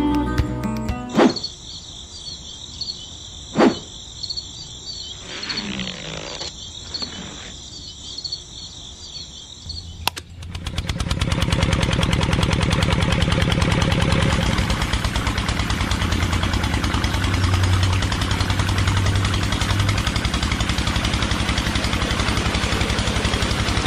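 A small engine starts abruptly about ten seconds in and keeps running steadily with a rapid knocking beat. Before it starts there is a faint, steady high-pitched buzz with a couple of sharp clicks.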